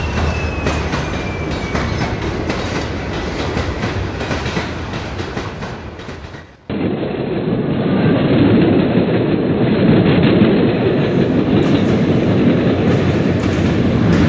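LEGO train running on plastic track, its wheels clattering over the rail joints, with a faint motor whine falling in pitch near the start. About halfway through it cuts abruptly to another take of a train running.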